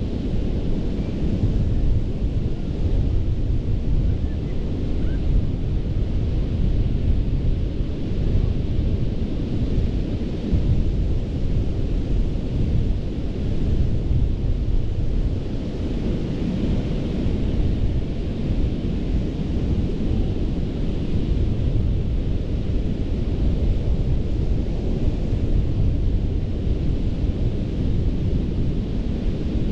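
Gulf of Mexico surf breaking on a sandy beach, a steady low rumble with a fainter hiss of foam, and wind buffeting the microphone.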